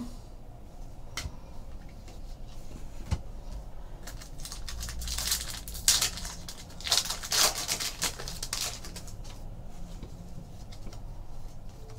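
Trading card packs and cards being handled: foil wrappers crinkling and rustling, with scattered small clicks. The rustling is busiest in the middle.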